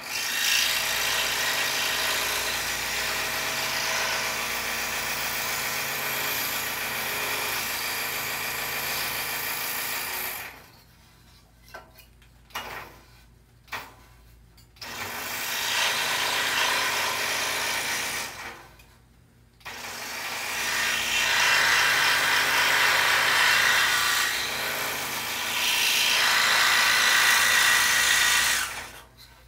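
Scroll saw cutting through a poplar board, running in three spells of several seconds each with short pauses and a few light clicks between them.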